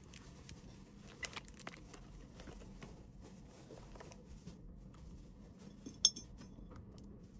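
Small items being handled and set down: scattered light clicks and taps, with one sharper click about six seconds in that rings briefly like a small clink.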